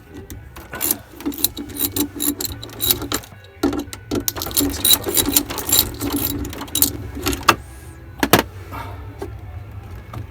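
Small metal parts and tools clicking and clinking in irregular handling as a boat's steering helm cable fitting is taken apart by hand, over a steady low hum.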